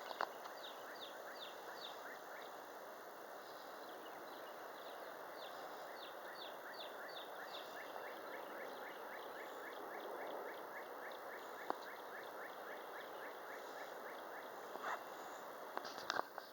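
Steady wind noise, with a bird calling a rapid run of short, high, falling chirps, several a second, that die away about two-thirds of the way through. A few sharp clicks come near the end.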